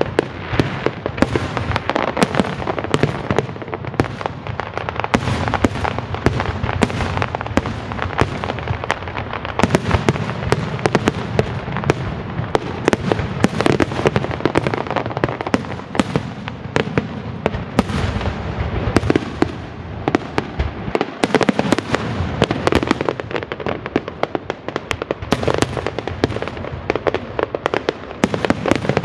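Aerial fireworks display: a rapid, unbroken barrage of shell bursts, many bangs a second over a low rumble, with crackling shells mixed in.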